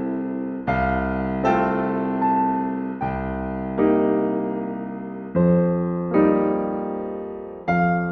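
Slow, gentle solo piano music: soft chords struck about once a second and left to ring and fade.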